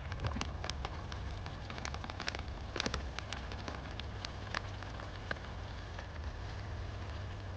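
Mushroom and carrot stew cooking in a pan on a small stove, crackling with scattered irregular pops over a steady low hum.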